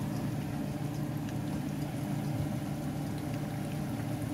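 Rolled chicken taquitos frying in hot oil, a steady sizzle with faint crackles over a steady low hum.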